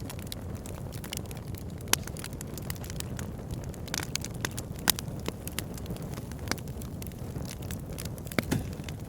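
A fire in a fireplace crackling over a steady low rushing of flames, with irregular sharp pops, a few of them louder.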